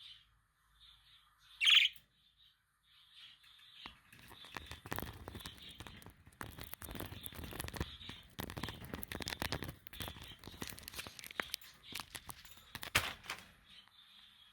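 Budgies (budgerigars) chirping in short calls, with one loud chirp about two seconds in. From about four seconds in until near the end, a dense run of rustling and clicking runs under the chirps.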